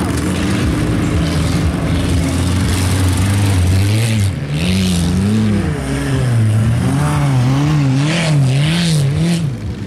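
Petrol engine of a Volkswagen Golf Mk2 wreck-race car revving hard on a dirt track, its pitch rising and falling again and again through the second half as the throttle is worked. Two short bursts of hiss come about halfway through and near the end.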